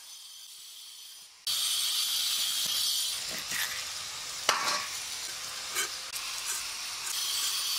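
Food sizzling in hot oil in a cooking pan: a steady loud hiss that starts suddenly about a second and a half in, with a few sharp knocks of a utensil partway through.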